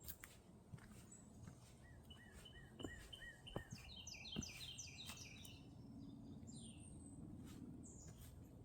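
Faint songbirds singing: a run of about six quick, repeated slurred whistles, then a rapid cascade of higher falling notes, and one more high call near the end. A few light clicks and a low steady background rumble sit underneath.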